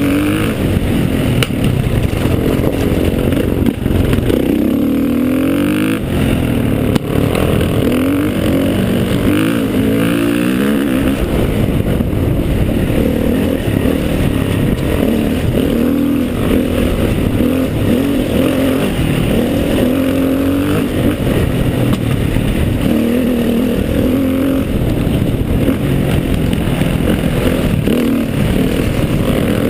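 Motorcycle engine running under load on a steep dirt climb, its pitch rising and falling over and over as the throttle is worked.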